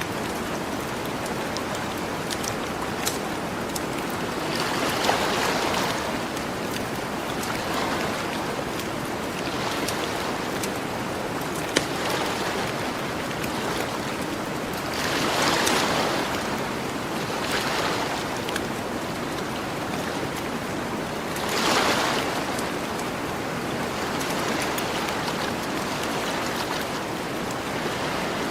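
Ocean surf washing onto a beach, a steady hiss swelling with each wave every few seconds, with the sharp crackles and pops of a campfire scattered through it, one louder pop about twelve seconds in.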